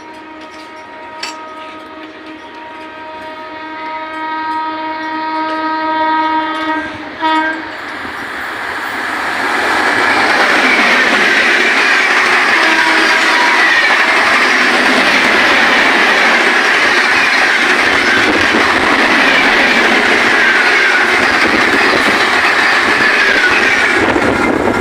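Indian Railways express train approaching at about 130 km/h, sounding a long horn for the first seven seconds or so, then rushing past with loud, steady rolling wheel and coach noise.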